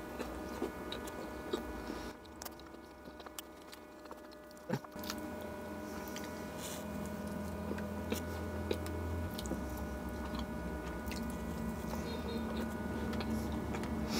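A person chewing and biting food close to the microphone, with small wet mouth clicks, over a steady faint hum.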